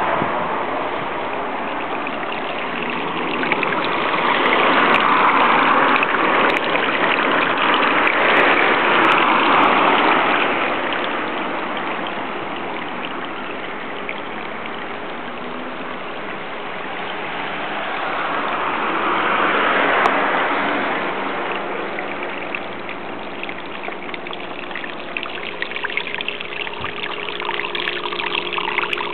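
Trapped rainwater from under a building running out steadily through a hole poked in its wall, a continuous splashing flow that swells and eases in loudness.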